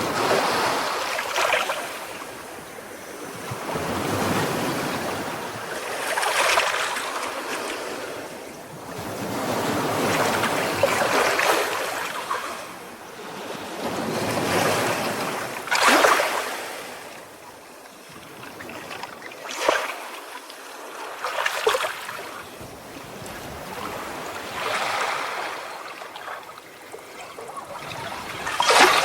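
Ocean waves washing in and breaking on a shore, swelling and ebbing every four to five seconds, with a few sharper splashes.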